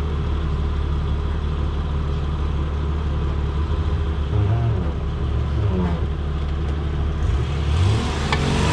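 Jeep Cherokee XJ's engine running steadily, with a few small rises and dips in revs.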